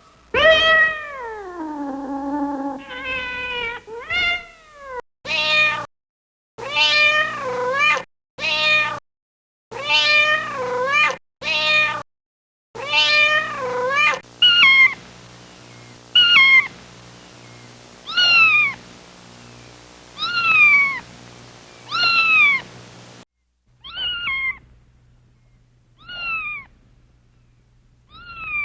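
Kittens meowing over and over in high voices: first one long meow that falls in pitch, then a string of short meows about one a second, later spaced about two seconds apart, with abrupt silent gaps cutting between some of them.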